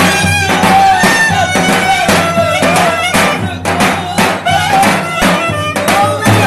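Lively Turkish folk dance music: an ornamented melody on a reedy or bowed folk instrument over a steady drum beat.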